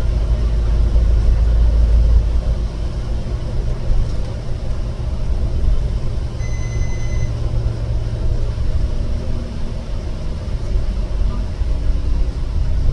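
Steady low rumble, with a short high-pitched beep about six and a half seconds in.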